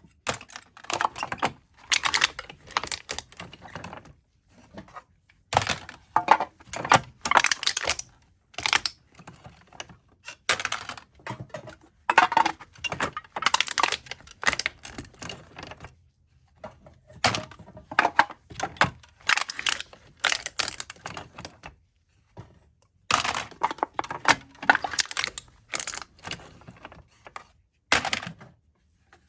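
Aluminium soda cans being crushed one after another: bursts of sharp crackling and crinkling metal, each a few seconds long, about six in all with short pauses between.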